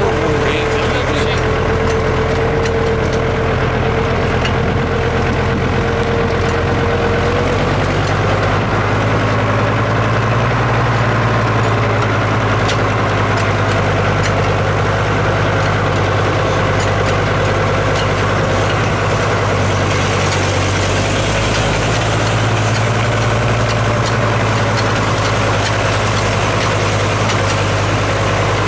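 A heavy engine idling steadily, with a steady higher whine that stops about seven seconds in as the engine note shifts slightly.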